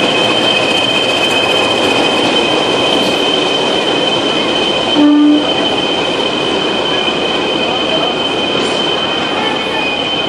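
Train rolling slowly into a station with a steady high, two-note squeal of wheels and brakes over the running noise. About five seconds in, a brief low hoot sounds once.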